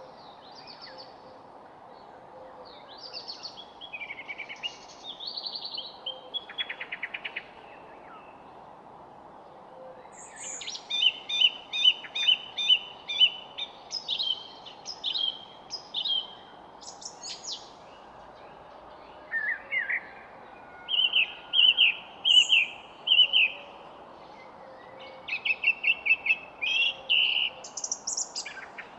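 Songbirds singing in several separate phrases of quick repeated notes and trills, with gaps of a few seconds between them, over a faint steady background hiss.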